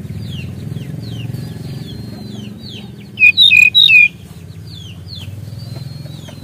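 Sikatan rimba dada coklat (brown-chested jungle flycatcher) singing: a run of quick, short falling chirps, with a loud burst of clear whistled notes about three seconds in lasting about a second, over a low steady hum.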